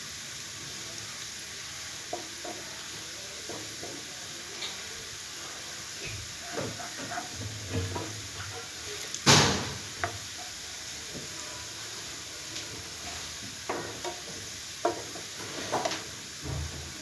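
Sliced onions frying in hot coconut oil in a pan, a steady sizzle, as they turn golden brown. A spatula stirs them with scattered clicks and scrapes against the pan in the second half, and one loud knock about nine seconds in.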